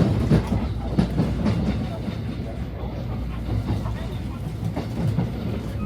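Train running on the rails, heard from inside the carriage: a steady low rumble with irregular clicks and knocks from the wheels and track.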